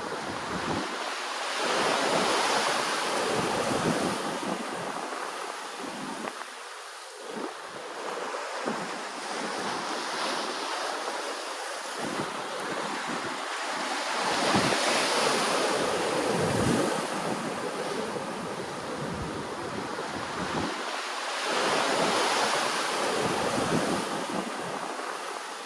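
Ocean waves washing in, the surf swelling and easing every several seconds, with wind rumbling on the microphone.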